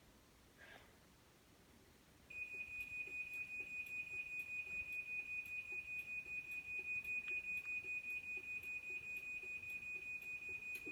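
Craftsman garage door opener sounding its warning beeper: a high-pitched, rapid, even beeping that starts about two seconds in. It warns that the door is about to close on its own.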